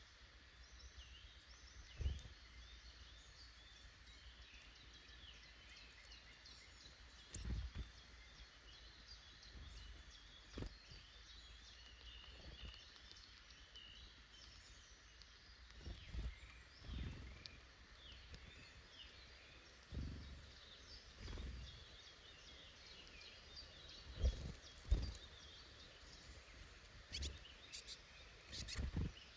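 Small woodland birds chirping and calling in a steady scatter of short notes, with irregular low thumps every few seconds; the two loudest thumps come close together about two thirds of the way in.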